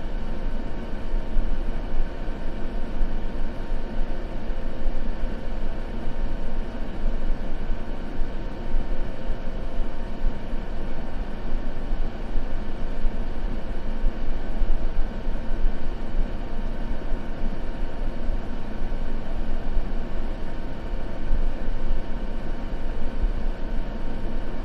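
Continuous white noise, a steady rushing hiss weighted toward the low end, unchanging in level.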